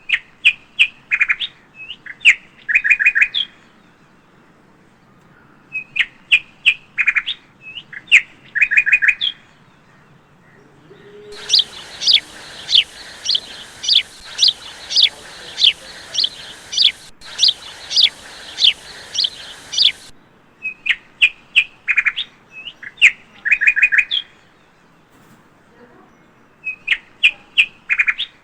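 A bird singing short phrases of sharp chirps and trills, with the same phrase repeated several times with pauses between. About eleven seconds in, a different bird call takes over for around nine seconds: a steady series of quick descending whistled notes, roughly two a second.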